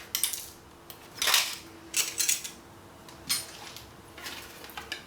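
Small hard objects clattering and knocking as they are handled and moved on a hard surface, in a string of short, sharp rattles.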